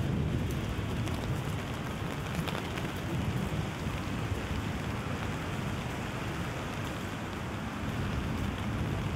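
Steady rain falling, with faint scattered drop ticks over a low, steady rumble.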